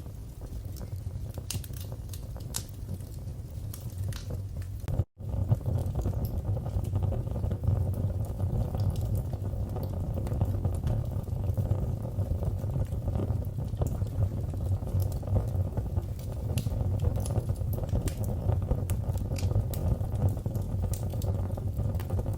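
Wood fire burning in a fireplace: a steady low rumble of flames with scattered sharp crackles and pops. The sound drops out for an instant about five seconds in.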